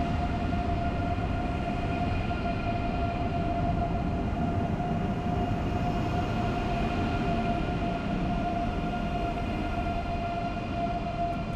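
ICE 3M (Class 406) high-speed electric train moving slowly along a station platform: a steady rumble with a constant high whine over it.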